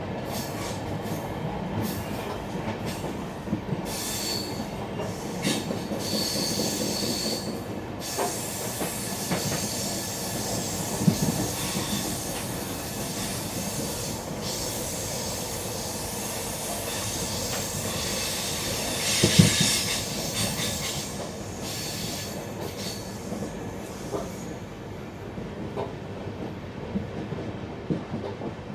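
Mangala Express passenger coaches running on the ghat line with a steady rumble, the wheels squealing on curves in high thin whines, with two sharp knocks, the louder about two-thirds of the way in.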